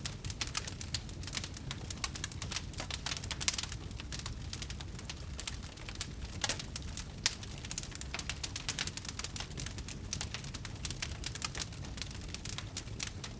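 Campfire crackling: a dense, irregular run of sharp pops and snaps over a steady low rumble, with a few louder pops standing out.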